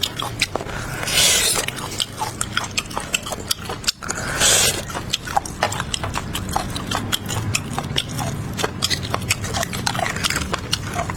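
Close-miked wet chewing and mouth clicks, many quick smacks in an uneven rhythm. There are two short slurps, about a second in and again about four and a half seconds in.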